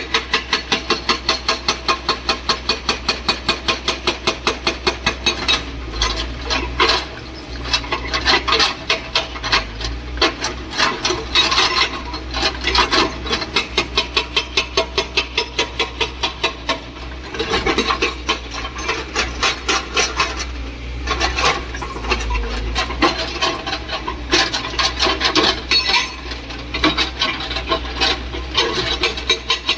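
Hydraulic breaker on a JCB excavator hammering: runs of rapid, evenly spaced blows, about seven a second, broken by short pauses of rougher, irregular sound.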